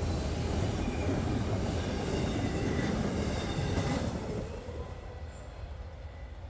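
A freight train of trash containers and auto racks rolling past on the rails, a steady rumble with faint high wheel squeal. It dies down about four seconds in.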